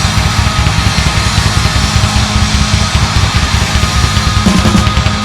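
Live rock band playing loudly: distorted electric guitar over a rapid, pulsing drum and bass beat.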